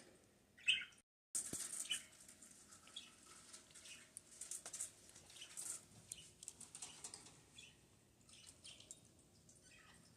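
Budgerigars chirping faintly in short, scattered calls, with some light rustling.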